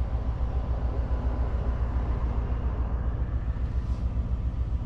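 Steady low rumble of the 2024 Mercedes-AMG S63's twin-turbo V8 and its exhaust while cruising, heard from inside the cabin, with road and wind noise coming in through the fully open panoramic sunroof.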